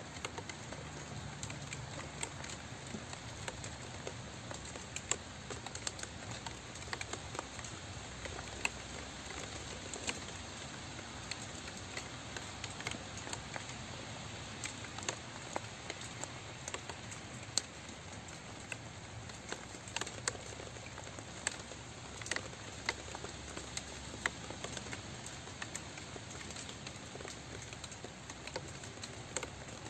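Steady rain, a continuous hiss with many separate drops ticking sharply at irregular moments.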